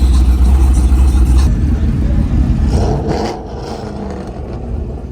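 A car engine running with a deep low rumble. The rumble fades about a second and a half in, and the sound drops quieter again a little after three seconds.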